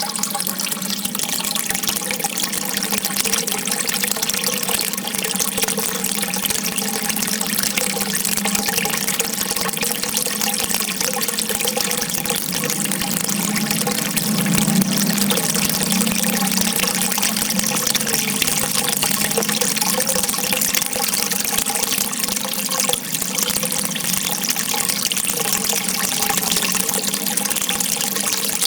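Water rushing and splashing steadily, with a slight swell about halfway through.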